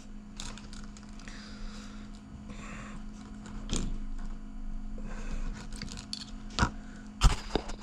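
Small clicks and light rubbing of a car key fob and its coin-cell battery being handled, with sharper clicks a little before halfway and a few more near the end, over a steady low hum.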